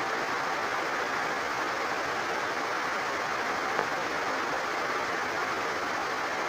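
Heavy rain falling steadily, with water overflowing and pouring, making a dense, even hiss. A single brief tap sounds a little past the middle.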